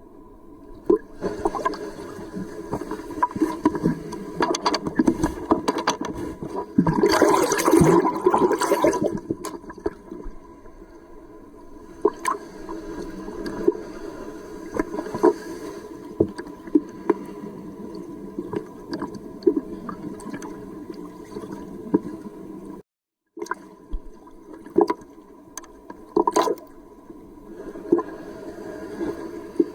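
Seawater gurgling and rushing around a camera in a water housing, carried by a swimmer in the surf, with many small knocks against the housing. A louder rush of water comes about seven seconds in, and the sound drops out briefly near 23 s.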